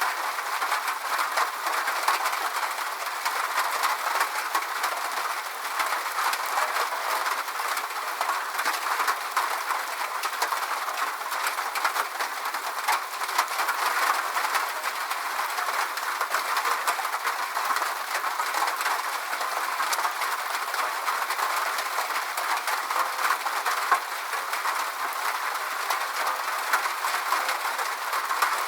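Steady rainfall: an even hiss of many small drops, unchanging throughout.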